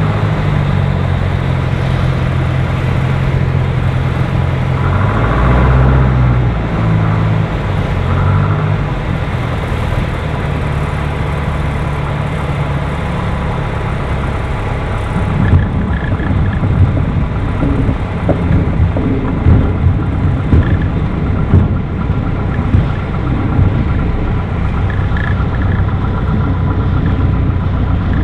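Piper light aircraft's piston engine running steadily during a crosswind landing approach, its pitch shifting a few times in the first ten seconds as power changes. From about halfway, irregular low thumps and knocks join in over the engine.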